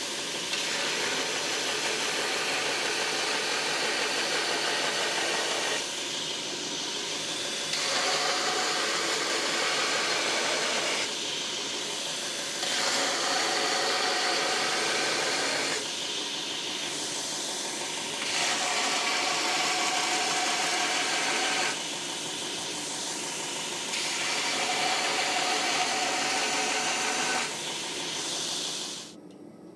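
Loud, steady machine noise in a knife-making workshop. It alternates between louder and softer stretches every two to four seconds and cuts off abruptly about a second before the end.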